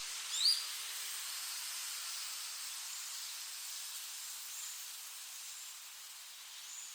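Steady high outdoor hiss with a few short, high bird chirps: two clear ones about half a second in and fainter single chirps later on.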